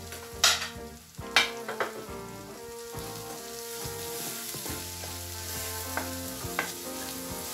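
Chopped onions, green chillies and ginger-garlic sizzling in butter in a nonstick pan, stirred with a wooden spatula. Two sharp knocks come in the first second and a half, then the sizzle grows a little louder and steadier as the stirring starts.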